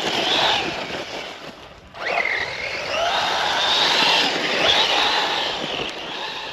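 Brushless electric motor of a Losi RC off-road truck whining under throttle, its pitch rising and falling as it speeds up and slows. It drops off briefly near two seconds in, then climbs sharply again.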